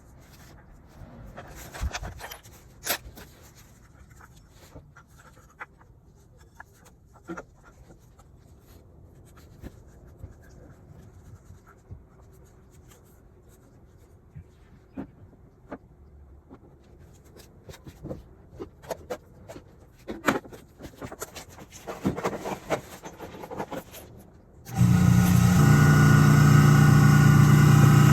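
Scattered light clicks and knocks of parts and tools being handled on a Suzuki Swish 125 scooter. Near the end its single-cylinder four-stroke engine comes in suddenly, running steadily at idle and much louder than the handling noises.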